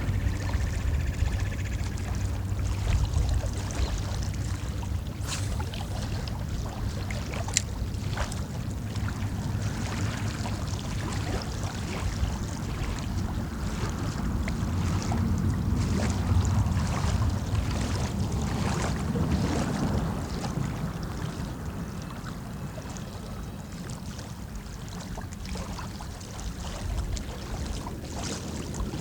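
Wind rumbling and buffeting on the phone's microphone, over a steady wash of water, with a few faint clicks.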